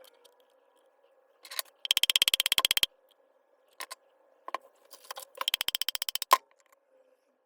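Two runs of rapid, evenly spaced mechanical clicking, about twenty clicks a second, each lasting about a second, with a few single knocks in between.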